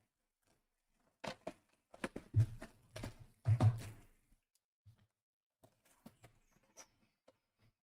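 A quick run of light knocks and clicks with a few dull thumps, then several faint scattered ticks.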